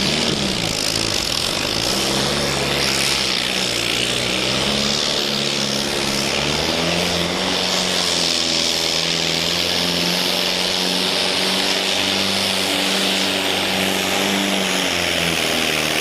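Open-class pulling tractor's engine running flat out under load as it drags the weight-transfer sled: a loud, steady note that climbs slightly about halfway through.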